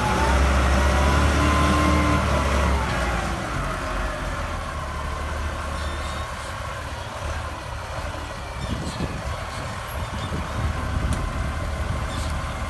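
Heavy diesel engine running, louder for the first few seconds and then settling to a lower, steady run, with a whine that rises and falls near the start.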